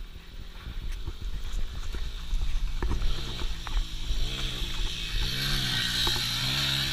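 Small dirt bike engine revving up and down several times, its pitch rising and falling as it is run hard at high RPM.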